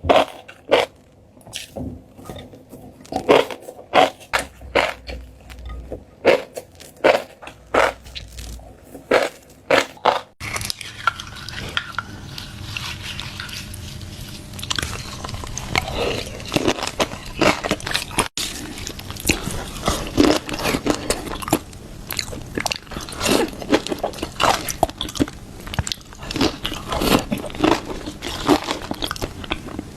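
Close-miked eating sounds: a person biting and chewing crunchy food, with separate crisp crunches about every half second at first, then after a cut about ten seconds in, a denser run of chewing and crunching.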